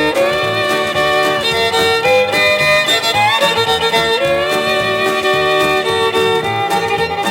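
Fiddle solo in a country-style song, playing held and sliding notes over a steady rhythm backing.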